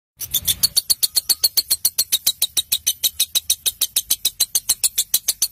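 Bird-song training recording (masteran) for lovebirds: a fast, even train of short high-pitched chirps, about seven a second, starting after a moment of silence.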